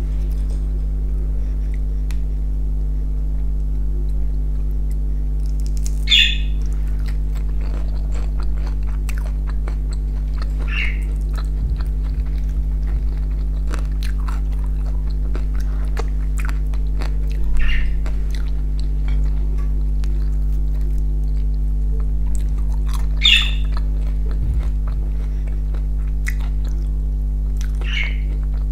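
Close-miked chewing and mouth sounds of someone eating fried fish, with a handful of short, sharper sounds several seconds apart, over a steady low hum.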